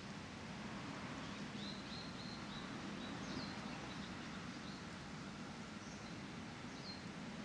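Small birds chirping now and then over steady outdoor background noise: a quick run of short chirps about two seconds in, and single falling calls about three, six and seven seconds in.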